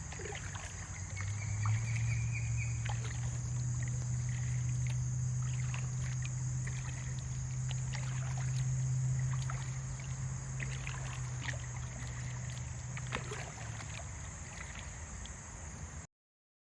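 Kayak being paddled through shallow creek water: paddle strokes and splashes with small knocks against the hull, over a steady low rumble that fades out near the end.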